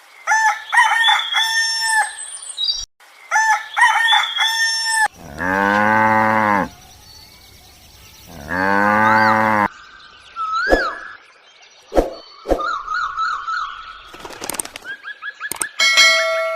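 A rooster crowing twice, then a cow mooing twice in long low calls. After that comes a run of short chirps, whistles and clicks.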